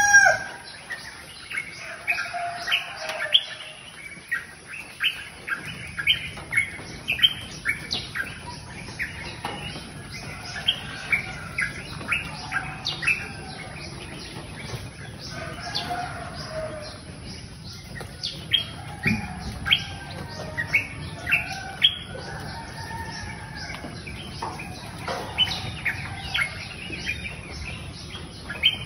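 Birds chirping: many short, sharp chirps in quick irregular runs, with a few lower calls among them.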